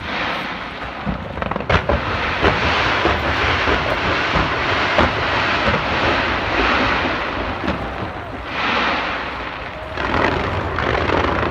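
Fireworks bursting and crackling: many overlapping sharp bangs over a loud, steady rushing noise.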